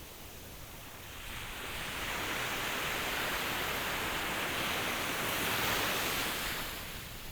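Ocean waves: one wave surges in about a second in, swells to its loudest, and washes back out near the end.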